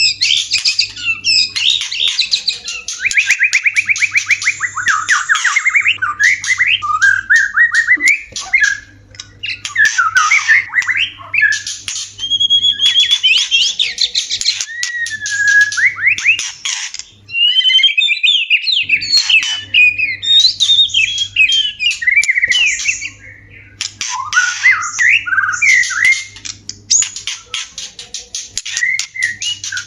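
White-rumped shama giving its mating-season song: a fast, varied run of loud whistles, rapid trills, sliding notes and harsh chattering calls, with a short break a little past the middle.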